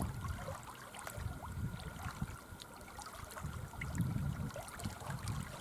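Wind gusting on the microphone, a low uneven rumble, over faint trickling and lapping water.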